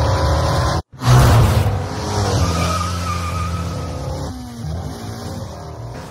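Ford Mustang Shelby GT350's V8 engine running loud under hard driving, cut by a brief dropout just under a second in, then slowly easing off. A thin high squeal sounds over it near the middle.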